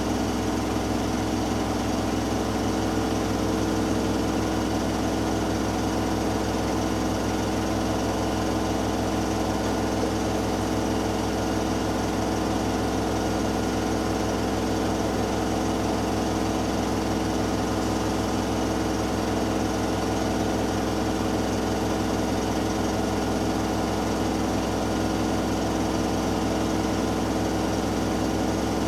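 Hoover Dynamic Next washing machine spinning steadily at high speed in the final spin of its Cotton 60 cycle, with a 6 kg load. The motor and drum give a constant whine with a fast, even hum underneath, and neither changes in speed.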